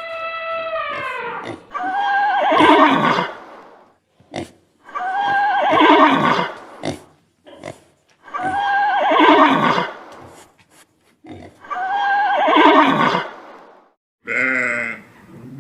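An animal call repeated four times at even spacing, about three seconds apart; each call is a loud, quavering cry that slides down in pitch. A steady held tone dies away in the first second and a half, and a different call starts near the end.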